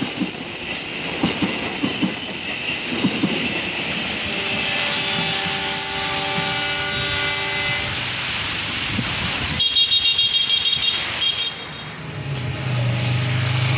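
Passenger train rolling past and drawing away, its wheels clicking over the rail joints, then a few steady ringing tones as it goes. About ten seconds in comes a brief rapid pulsing high sound, and near the end a low hum starts.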